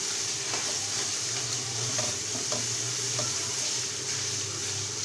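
Onion-tomato masala sizzling in oil in a large aluminium wok while being stirred with a spatula, with a few light taps of the spatula against the pan. A steady low hum runs underneath.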